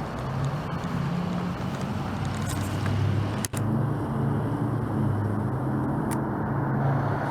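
A motor vehicle's engine running with a steady low hum. The sound drops out briefly about halfway through.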